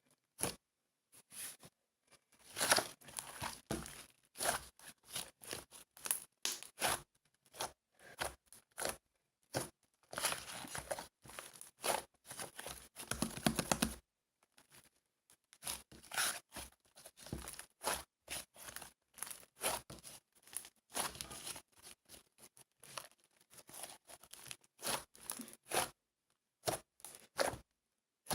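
Tearing and crinkling handling noises in irregular bursts with short pauses, denser for a few seconds near the middle.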